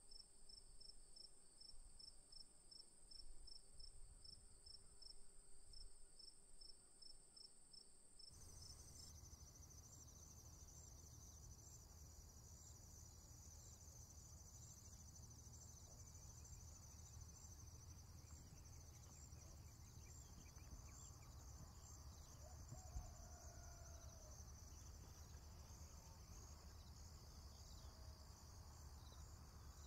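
Faint, steady high-pitched insect chirping with a regular pulse. About eight seconds in the background changes abruptly and a low hum joins it.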